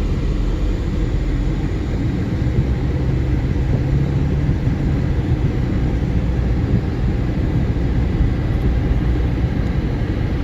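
Steady low rumble of a vehicle driving, engine and road noise.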